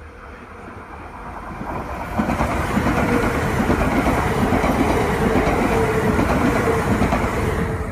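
E3 series Akita Shinkansen train passing through a station at speed: its running noise grows louder as it approaches, then stays loud and steady as the cars rush past close by, with some clickety-clack of the wheels.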